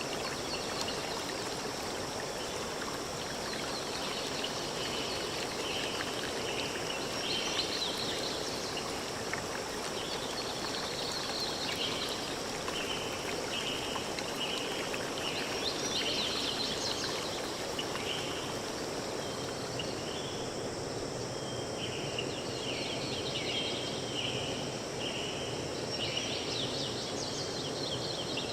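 Forest stream flowing steadily, with series of short high chirps repeating over it throughout.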